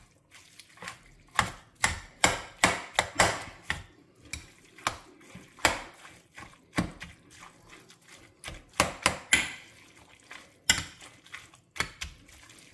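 A slotted metal spoon stirring a wet spinach and bean filling in an enamel pot. It gives irregular scrapes and clinks against the pot's sides and bottom, a few of them loud.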